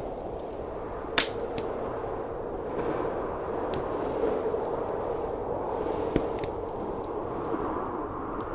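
Wood fire crackling with sharp, scattered pops, the loudest about a second in, over the steady rush of blizzard wind.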